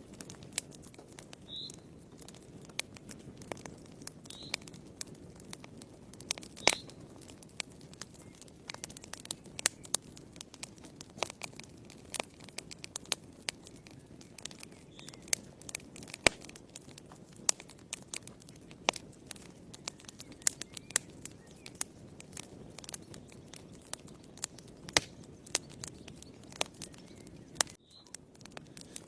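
Wood fire crackling in a fireplace: sharp, irregular pops and snaps, several a second, over a low, steady rush of burning.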